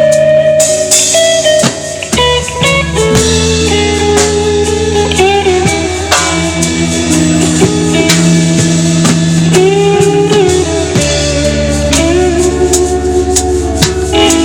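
Live band playing an instrumental passage: electric guitar with bass and drum kit.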